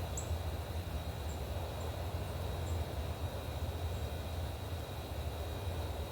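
Steady low outdoor rumble, with one sharp high bird chirp just after the start and a few faint, short high chirps over the next couple of seconds.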